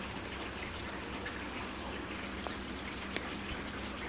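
Light rain falling steadily, an even hiss of drops, with a single sharp tick about three seconds in.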